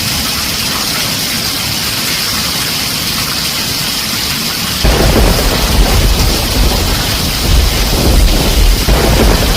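Heavy rain drumming steadily on a tin roof. About halfway through, a roll of thunder sets in suddenly with a deep rumble that carries on, swelling again near the end.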